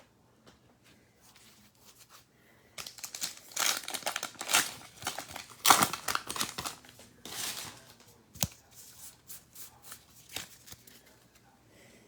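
A trading card pack's wrapper being torn open and crinkled, then the cards rustling and shuffling as they are handled. There is a single sharp click about eight seconds in.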